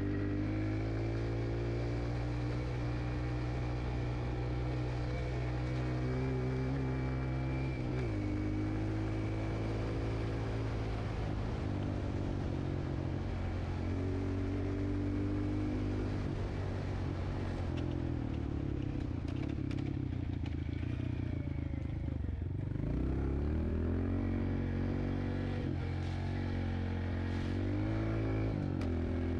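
Dirt bike engine running while being ridden. Its pitch drops and climbs several times with throttle and gear changes, with a clear dip and rise near the three-quarter mark.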